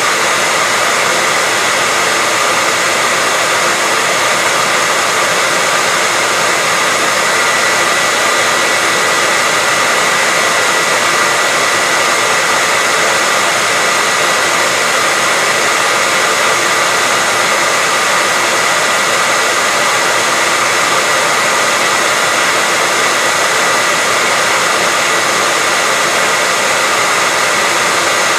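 Electric hairdryer running continuously: a steady, even rushing of air with a constant whine near the top of its pitch.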